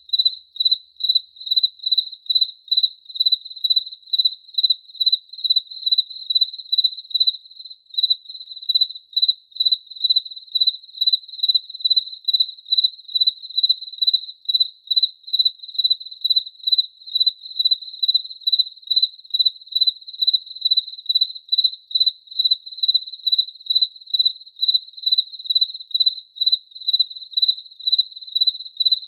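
A cricket chirping steadily on one high pitch, in an even rhythm of about two chirps a second.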